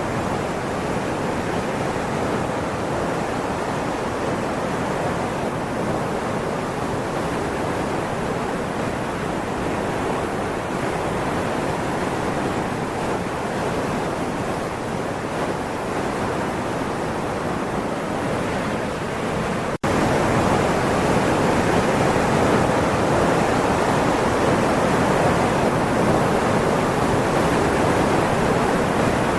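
Steady rushing noise of water. About twenty seconds in there is a sudden cut to a louder stretch of the same noise.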